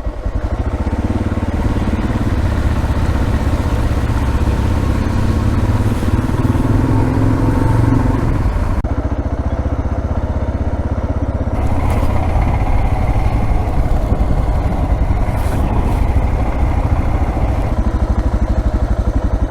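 Single-cylinder dual-sport motorcycle engine running steadily at low speed while riding a dirt trail.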